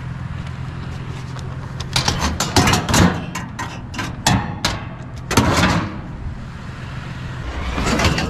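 Truck engine running with a steady low hum, then a run of sharp clattering knocks and clicks for a few seconds; the engine hum stops near the end.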